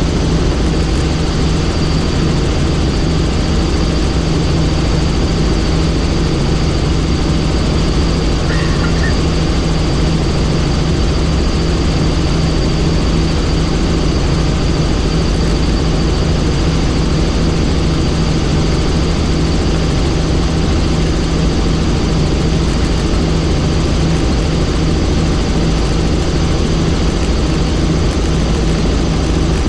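Helicopter in flight heard from on board: a loud, steady drone of rotor and engine with a thin high whine running over it.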